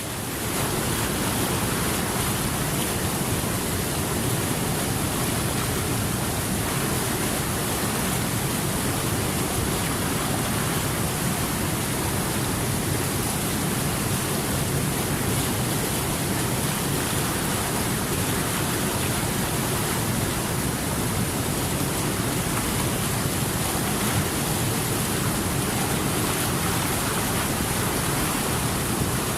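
Steady rushing of running water, an even unbroken wash of noise, briefly quieter at the very start before settling at its full level.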